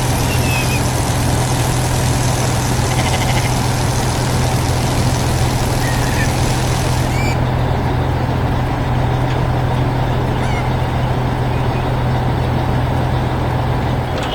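Heavy farm machine engine running steadily under load, with a strong low hum and dense mechanical noise.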